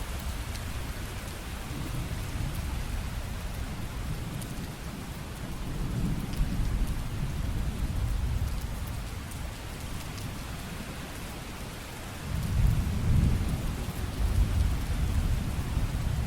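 Steady rain falling, with low rolling thunder rumbling underneath; the loudest rumble comes about twelve and a half seconds in.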